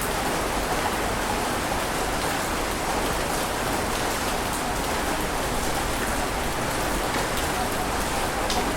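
Steady rushing water noise at an even level, with faint scattered crackling ticks in the highs and no distinct wave surges.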